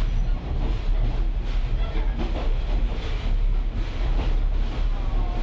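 Railway caboose rolling along the track behind a diesel locomotive. A steady low rumble runs throughout, with irregular rattles and clatter from the wheels and car.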